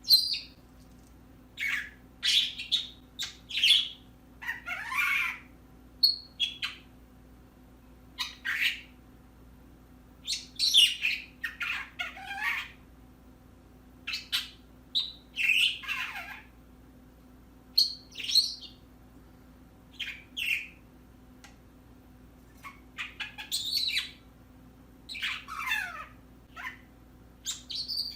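Pet birds chirping and squawking in short separate calls, many of them sliding down in pitch, with brief pauses between.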